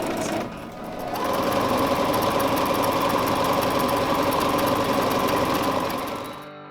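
Electric sewing machine running at speed while stitching fabric: a short run, a brief stop, then a steady run of about five seconds with a fast even rhythm that ends near the close.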